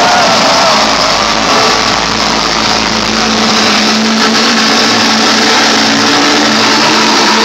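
Electronic dance music played loud over an arena sound system: a dense wash of synth noise, with a falling synth sweep fading out in the first second and a steady low synth note held from about three seconds in until near the end.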